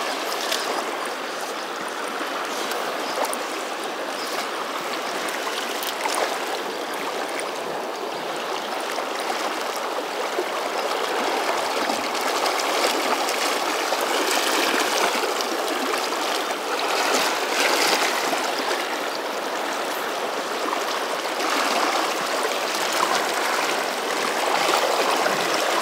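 Fast-flowing river water, a steady rush of the South Fork Snake River's strong current.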